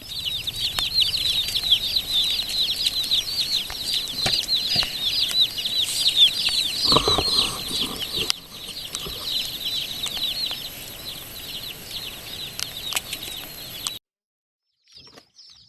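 A box of day-old meat chicks peeping continuously: many short, high, falling peeps overlapping, several a second. The peeping gets quieter about eight seconds in and stops abruptly about fourteen seconds in.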